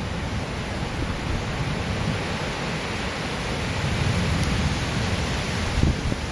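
Steady rain of a severe thunderstorm with a low rumble of thunder underneath.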